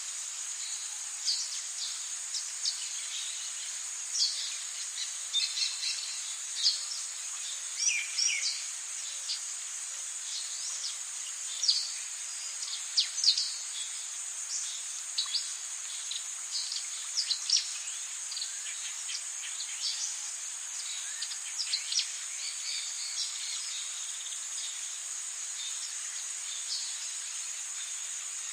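Rainforest ambience: a steady high-pitched insect drone with many quick bird chirps and whistles over it. The chirps are busiest in the first half and thin out toward the end.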